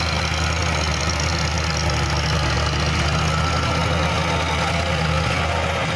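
Sonalika tractor's diesel engine idling steadily.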